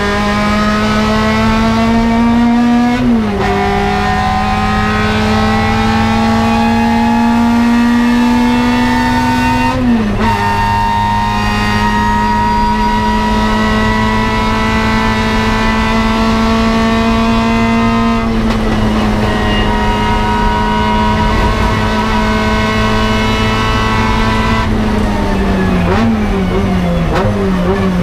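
Toyota KE70 Corolla's 4A-GE twin-cam four-cylinder racing engine heard from inside the cabin, pulling hard through the gears. Its pitch climbs and then drops sharply at upshifts about 3 and 10 seconds in, and holds high and fairly steady through the middle. Near the end it falls in several quick steps as the car slows.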